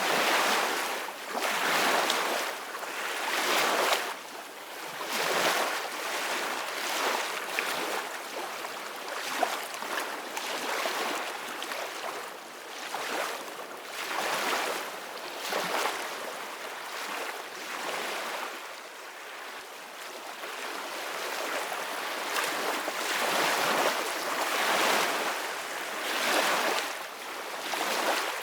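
Sea waves splashing and washing, swelling and easing every second or two.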